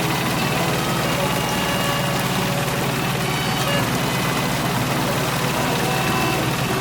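A mini tractor's engine running steadily at idle, an even low hum.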